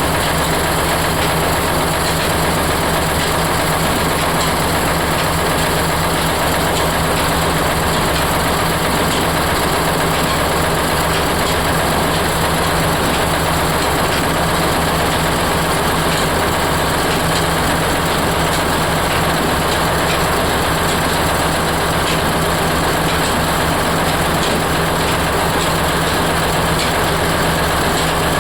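Oil expeller (screw oil press) running: a loud, steady machine drone with a constant hum that does not change.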